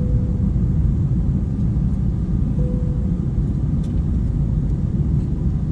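Steady low rumble of an Airbus A321 airliner's engines and airflow, heard from inside the cabin as the jet climbs after takeoff.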